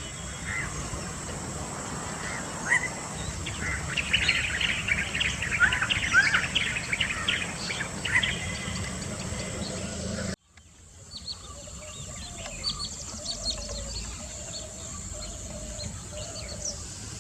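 Many small birds chirping and calling together, busiest and loudest in the middle of the first ten seconds, over a steady high whine. About ten seconds in the sound cuts off suddenly to a quieter bird chorus with a lower wavering call repeated several times.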